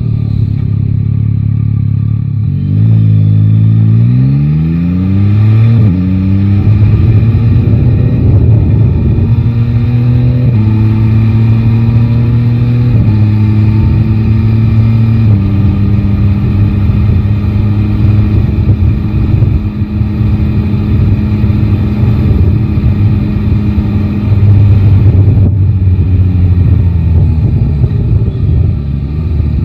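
Yamaha Tracer 9 GT's three-cylinder engine pulling away from low revs, rising in pitch and shifting up about four times, each shift dropping the pitch a step. It then holds a steady cruise before easing off to lower revs near the end.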